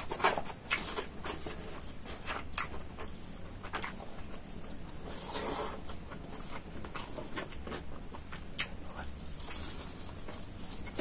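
Close-miked eating by hand: wet chewing and lip smacks, with quick clicks and rustles of fingers picking rice, chicken and noodles from a styrofoam takeaway box.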